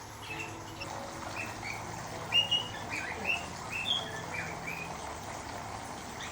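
Cockatiels chirping: a quick run of short calls, loudest about two and a half seconds in, dying out near the end.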